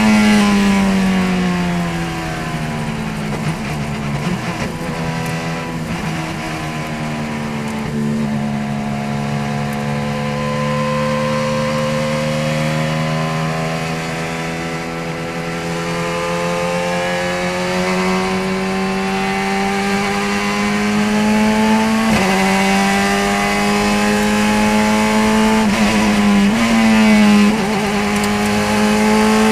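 Radical SR3 race car's engine running hard on track. The pitch falls at the start as it slows for a corner, then climbs slowly for a long stretch. It drops sharply at a gear change about two-thirds of the way through, and there are further quick shifts near the end.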